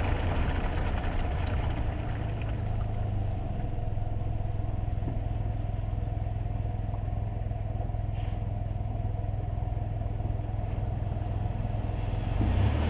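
Cabin sound of a kei car driving on wet roads: a steady low engine hum under tyre and road noise. The hiss of the tyres fades over the first couple of seconds as the car eases off. Near the end a louder rush rises again.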